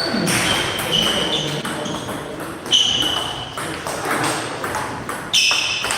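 Table tennis ball clicking against bats and table during play, a sharp knock every second or so, some with a brief high ring, over the general hubbub of a playing hall.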